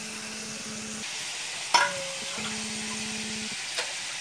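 Chicken pieces and cauliflower frying in oil in a pan, a steady sizzle. A sharp clink comes a little under two seconds in and a softer tick near the end, and a low steady hum comes and goes.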